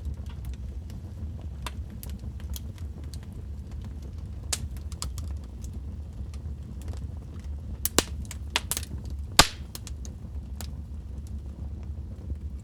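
Wood fire burning in a fireplace: scattered crackles and sharp pops over a low steady rumble, with a cluster of louder snaps about eight to nine and a half seconds in.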